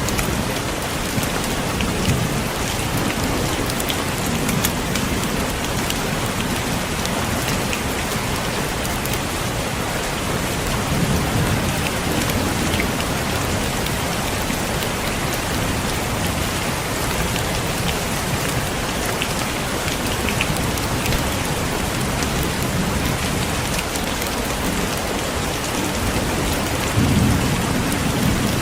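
Heavy rain falling steadily, a dense hiss of many drops hitting surfaces. Low rumbles of thunder swell up a few times, the strongest near the end.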